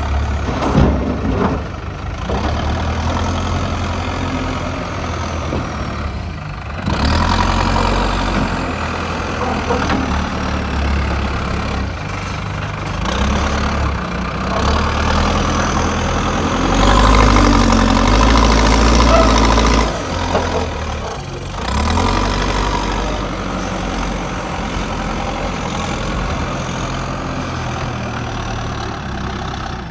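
JCB backhoe loader's diesel engine running, revving up under load a couple of times as the hydraulics work the bucket, loudest for a few seconds past the middle.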